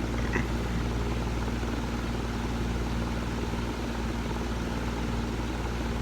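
A steady low mechanical hum, with one faint short chirp just under half a second in.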